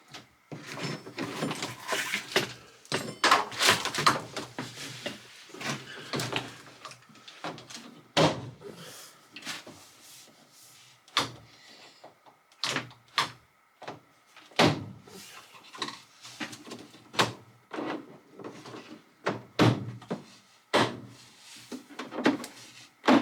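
Irregular knocks, thuds and clatter from hand work in a small enclosed space. There is a dense run of clattering for the first few seconds, then single sharp knocks every second or two.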